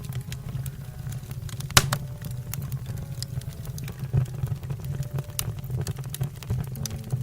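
Firewood crackling and popping in a fireplace: a dense, irregular run of sharp snaps, with one loud pop about two seconds in, over a steady low rumble of the burning fire.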